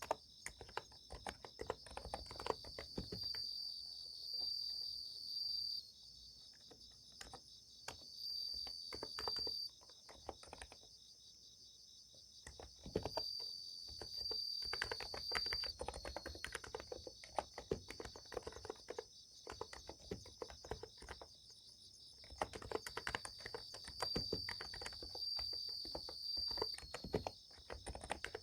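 Typing on a Niz Plum x108 electro-capacitive keyboard: quick runs of soft keystrokes with short pauses. Under it runs a steady chorus of summer-night insects, with louder trills coming in phrases of a second or two.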